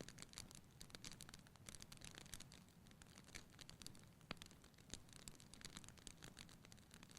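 Faint crackling of a wood fire in a fireplace: many small irregular pops and snaps over a low rumble of the flames, with one sharper pop a little after four seconds in.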